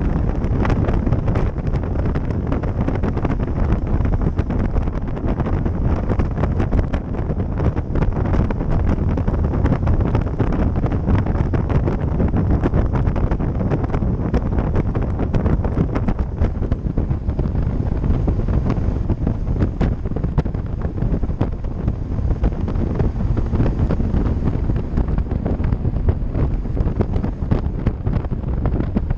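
Wind buffeting the microphone of a camera riding along on a bicycle: a steady, loud, low rush of noise.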